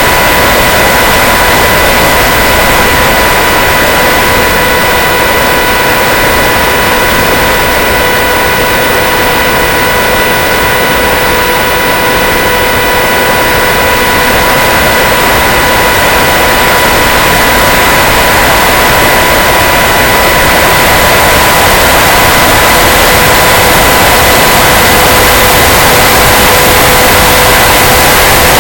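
A HobbyZone Aero Scout electric RC plane in flight, heard from onboard: a loud, steady rushing noise with a steady whine that holds one pitch.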